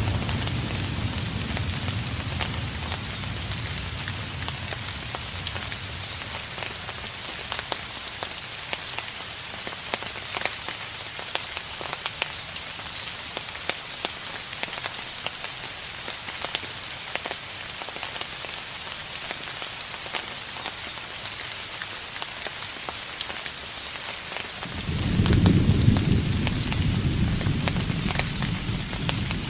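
Steady rain falling with fine pattering crackles, under distant thunder: a low rumble dies away over the first few seconds, and another rolls in about 25 seconds in and goes on to the end.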